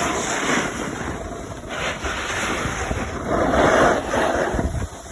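Wind rushing over the microphone while moving fast down a ski slope, mixed with the hiss of sliding on snow; it swells and dips, loudest a little before four seconds in.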